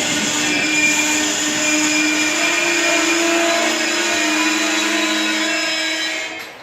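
Regional train running on the rails: a loud steady rushing noise with several held whining tones over it, cutting off abruptly near the end.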